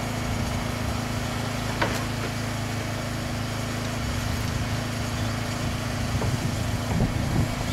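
Table saw running steadily with no wood being cut, a constant motor hum, with a single click about two seconds in.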